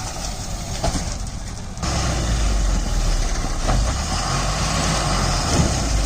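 Heavy diesel machinery engine running, stepping up suddenly to a louder, deeper, steadier sound a couple of seconds in.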